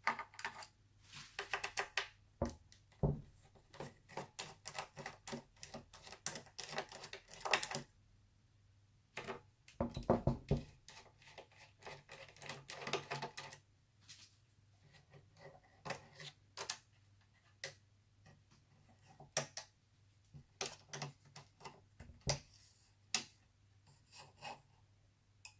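Small screwdriver working screws out of a laptop's chassis: clusters of light, quick clicks and taps of metal on screws and plastic, with one louder knock about ten seconds in.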